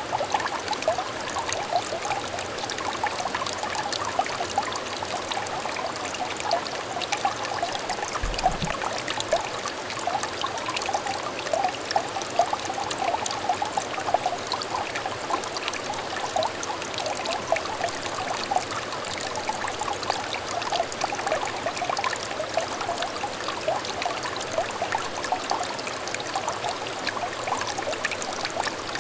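Water trickling and burbling in a small, shallow clear stream: a steady, dense patter of small bubbling plinks.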